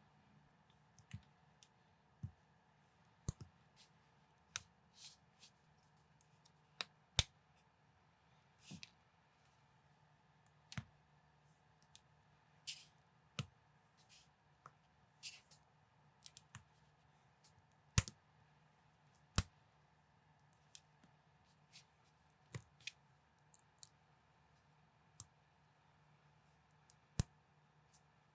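Plastic building bricks being handled and snapped together: irregular sharp clicks, roughly one a second, with a few short rustles among them.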